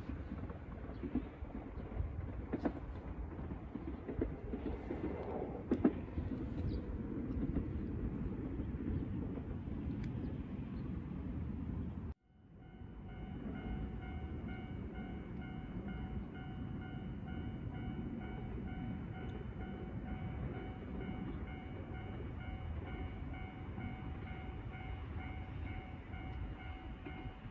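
Enshu Railway electric commuter train running on the line in the distance, with a few clicks. About twelve seconds in the sound cuts out abruptly and returns with the train noise joined by a steady, slightly pulsing ringing tone.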